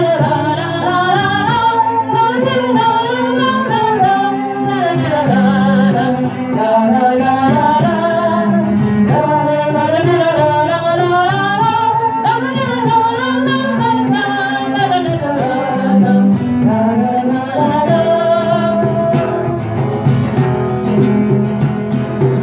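A live acoustic song between verses: a wordless melody with a wavering pitch, carried over guitar accompaniment.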